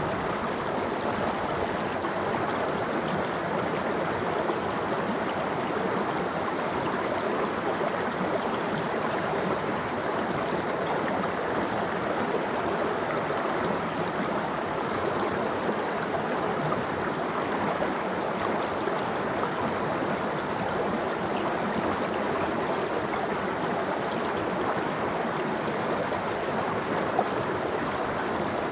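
Mountain stream water flowing steadily, an even rushing sound with no change in strength.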